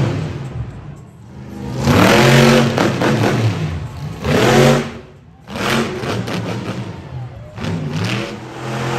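Monster truck engine revving in repeated throttle bursts, its pitch climbing and falling. It drops away briefly about a second in and again about five seconds in, runs lower for a while, then rises near the end.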